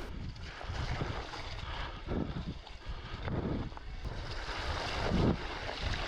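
Wind buffeting the microphone in uneven low gusts while riding over rough, boggy moorland.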